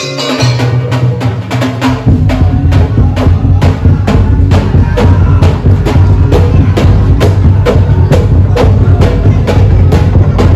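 Daul Madura percussion music (Madurese tongtong street ensemble) played loud through a big sound system. It opens on a held bass tone, then about two seconds in a heavy bass line and a fast, steady beat of drums and wood-block strokes come in.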